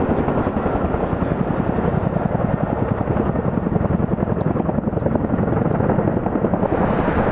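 Military helicopter rotors beating loudly in a rapid, steady pulse, with the turbine engines under it.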